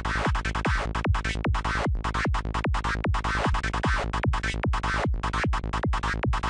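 Psytrance loop at 150 BPM: a kick drum on every beat under a dark, FM-like synth lead patch from Native Instruments Massive, played in short chopped notes.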